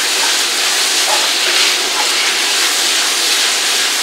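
Rice noodles, tofu and vegetables sizzling in a hot stainless steel wok as they are stirred with a wooden spatula: a steady frying hiss.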